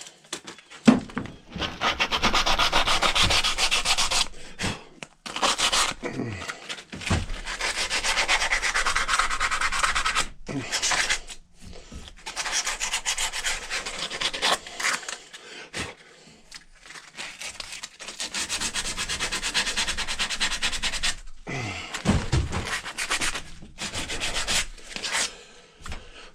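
Hand-abrading the edges of a wooden axe handle, rounding them off, in spells of rapid back-and-forth strokes broken by short pauses.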